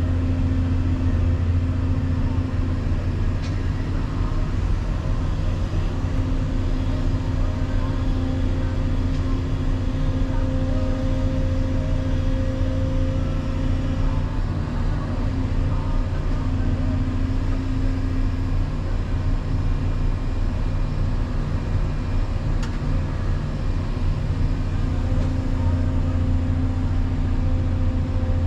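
Volvo EC220EL excavator's diesel engine running with a steady low drone, its tones shifting slightly with the load.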